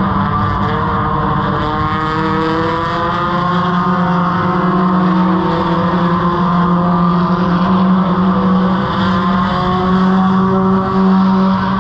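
Race car engine idling steadily, with a slight wavering in its note, heard from underneath the car.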